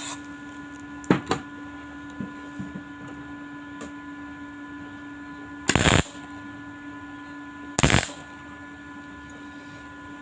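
Two short crackling tack welds from an arc welder on stainless steel sheet, about six and eight seconds in, each lasting under half a second. A steady electrical hum runs underneath, with a couple of sharp clicks about a second in.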